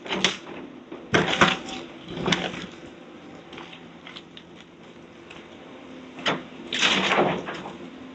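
Heavy demolition machinery's diesel engine running steadily, with loud crashes and clatter of house debris being broken and dropped: one at the start, a cluster about a second in, another a second later, and a longer cluster near the end.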